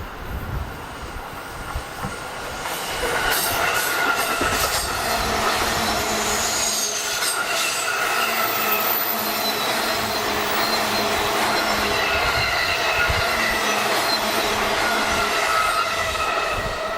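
JR East 485-series electric train running past, growing louder over the first few seconds and then holding steady. Several high squealing tones slowly shift in pitch over the rolling noise, with a few sharp knocks a few seconds in.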